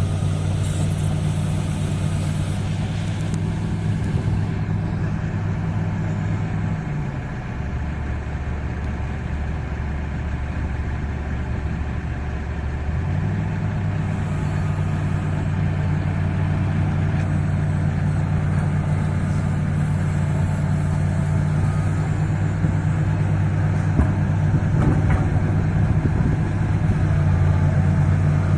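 Truck engine running steadily; its pitch drops about seven seconds in and comes back up about six seconds later, then holds.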